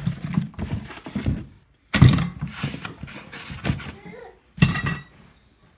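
Cardboard packaging being pulled apart and handled: three spells of rustling and scraping with sharp knocks.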